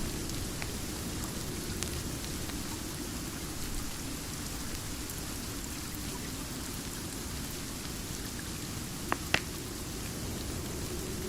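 Steady rain ambience mixed with a crackling fireplace; two sharp pops from the fire about nine seconds in stand out over the even hiss.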